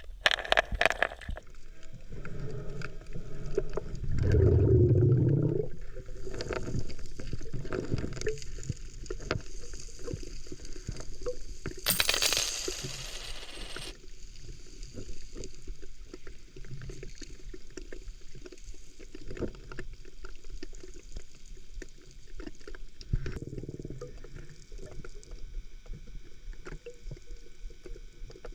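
Sea water sloshing and gurgling around an action camera, with muffled knocks and clicks and a loud hissing rush, like a burst of bubbles, about twelve seconds in.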